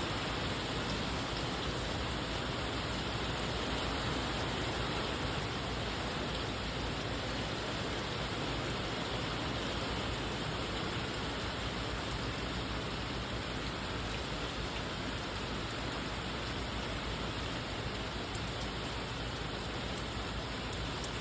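Steady rain falling, an even hiss of rain on surfaces that holds at a constant level throughout.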